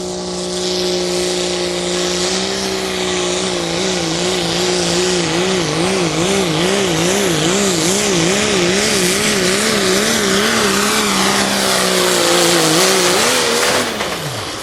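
Ford F-250 pickup truck's engine under heavy load, pulling the sled at high revs. Its pitch holds steady, then wavers rapidly up and down about twice a second for several seconds, and falls off sharply near the end as the pull ends.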